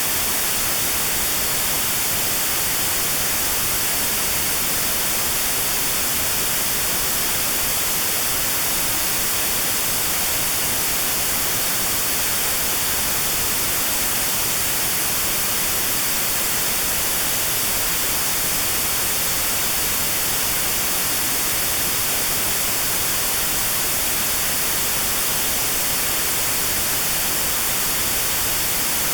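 Steady white noise with a narrow band around 4 kHz cut out, notched sound therapy for 4 kHz tinnitus. An even hiss that is brightest in the treble and never changes.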